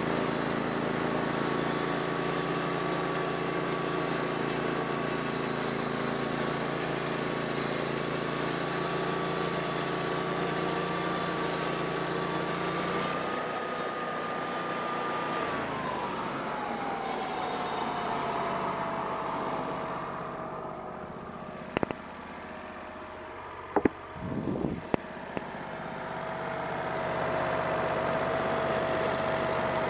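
Wood-Mizer portable band sawmill running with a steady whine. About fifteen seconds in, the whine falls to a lower pitch and the sound eases off, with a few sharp knocks. It then runs on steadily at the lower pitch.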